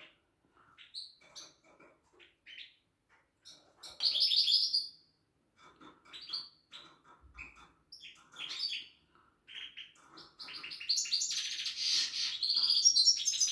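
Small songbird chirping in short, scattered calls, with a louder run of notes about four seconds in, then breaking into a loud, fast, continuous song about ten seconds in.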